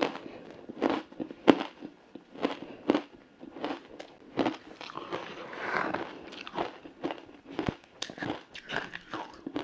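Frozen matcha ice being bitten and chewed: repeated sharp crunches, about one or two a second, with crackling between bites.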